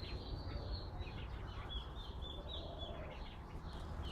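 Small songbird chirping in a quick series of short, high notes, several a second, over wind rumbling on the microphone.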